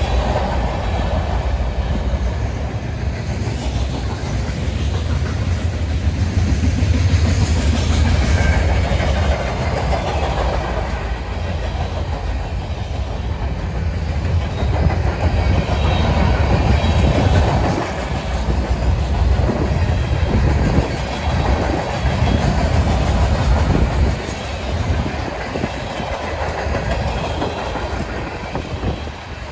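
A CN freight train's cars, boxcars and then centerbeam flatcars, rolling steadily past, with a constant low rumble and the repeated clicking of steel wheels over rail joints.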